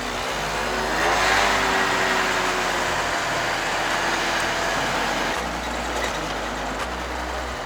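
Moped engine running under way, with wind rushing over the microphone; the engine note climbs about a second in.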